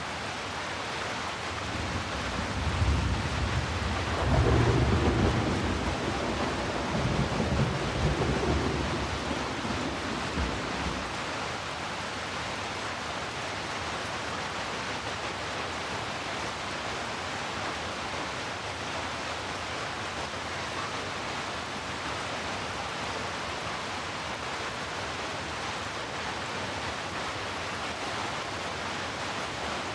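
Steady heavy rainfall with a roll of thunder that builds from about two seconds in, is loudest a few seconds later and dies away about ten seconds in, leaving the rain alone.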